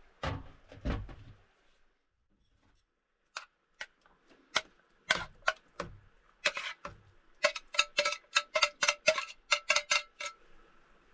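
Cookware being handled: a couple of dull knocks, then scattered sharp clinks that become a quick run of ringing taps, about four a second, near the end, as if a utensil is struck against a pot or cup.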